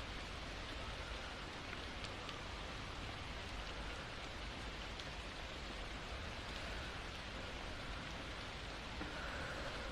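Steady rain: an even, constant hiss with a few single drop ticks.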